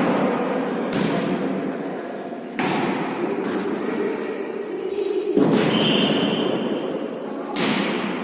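Volley tennis ball being struck and bouncing during a rally: about six sharp thuds at irregular spacing, each with an echo after it.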